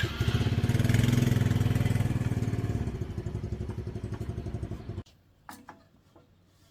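Small engine of a banana slicer running with a fast, even pulse for about five seconds, easing off and then cutting out suddenly, followed by a few faint clicks.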